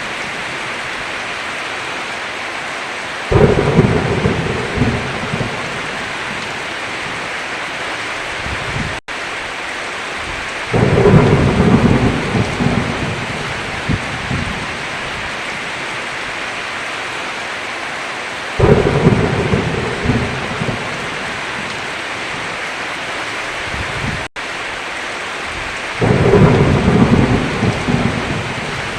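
Steady heavy rain with four rolls of thunder, each starting suddenly and fading over a few seconds. The sound cuts out for an instant twice.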